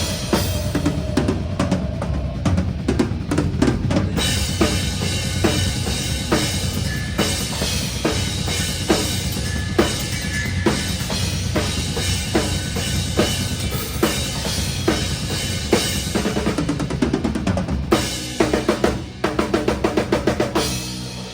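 Drum kit played hard in live metalcore, heard close from the drummer's position: rapid bass drum and sharp snare and cymbal hits over the band. In the last couple of seconds it breaks into a run of fast, evenly spaced strikes.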